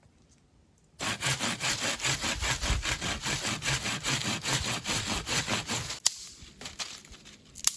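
Hand saw cutting through firewood in fast, even back-and-forth strokes that start about a second in and stop after about five seconds. A sharp crack follows, and another, louder one near the end.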